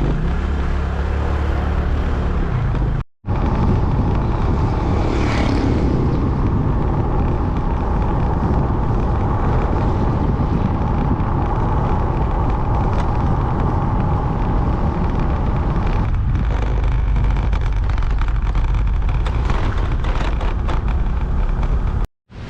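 Riding a motor scooter: wind rushing over the microphone with the engine running underneath, a dense steady noise. It drops out to silence twice, briefly, about three seconds in and near the end.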